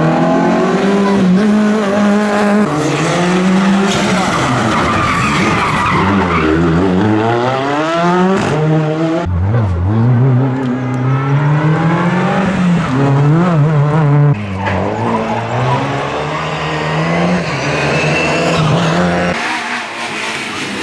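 Rally car engine revving hard, its pitch falling and climbing repeatedly as the driver brakes, downshifts and accelerates through the stage, with tyres skidding and squealing.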